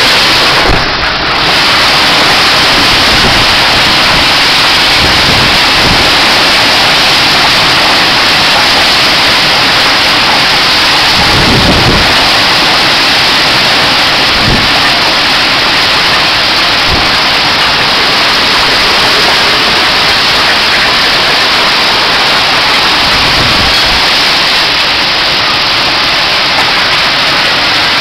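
Heavy hail and rain pelting down in a dense, steady hiss. A few low rumbles rise through it, the strongest about twelve seconds in.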